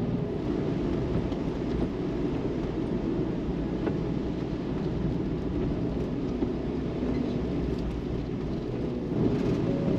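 Steady low road and engine rumble inside the cabin of a Suzuki Every kei van on the move.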